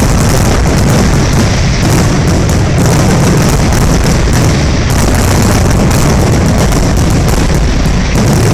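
Fireworks exploding in a dense, continuous barrage: loud, overlapping booms and crackling bursts with no break between them.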